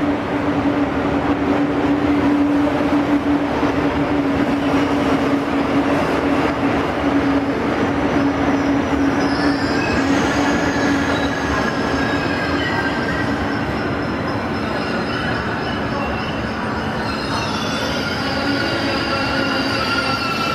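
ICE 2 high-speed train running into the platform: a steady hum while the power car passes, then high-pitched brake and wheel squeals from about nine seconds in as the coaches roll by and the train slows.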